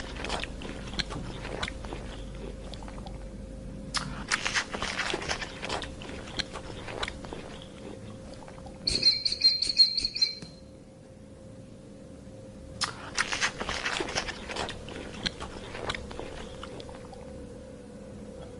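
An animal chewing and crunching food in bursts of crisp bites. A short, high-pitched pulsing call cuts in about halfway through.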